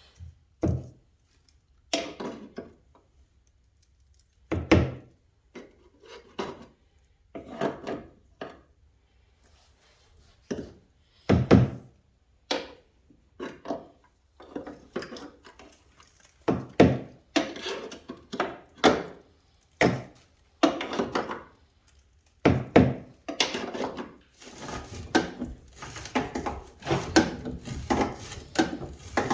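Hand tools knocking and clunking against a truck's cab and frame while working at the body mount bolts, in separate knocks spaced about a second or two apart. In the last few seconds this turns into denser, more continuous rubbing and scraping.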